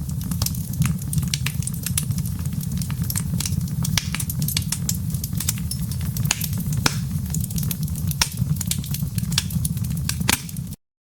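Fireplace fire crackling: irregular sharp pops and snaps from the burning wood and embers over a steady low rumble of the flames. The sound cuts off suddenly near the end.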